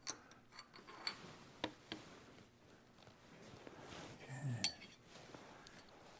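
Scattered light metallic clicks and clinks, with a dull knock about four and a half seconds in: small metal tools or parts being handled.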